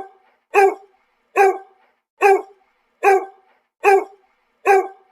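A dog barking over and over at an even pace, about one bark every 0.8 seconds, each bark short and alike.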